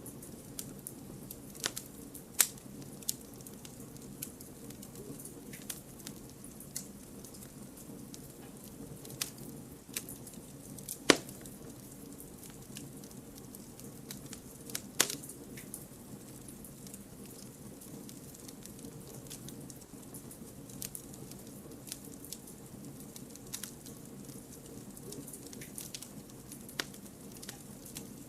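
Wood campfire burning: a steady low rush of flame with scattered sharp crackles and pops from the logs, the loudest pop a little after ten seconds in and another near fifteen seconds.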